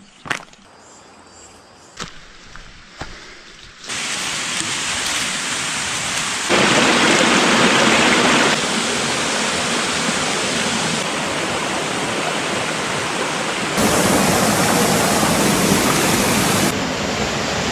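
A few soft clicks and knocks, then about four seconds in, a steady loud rush of running water begins. Its level jumps abruptly up and down several times.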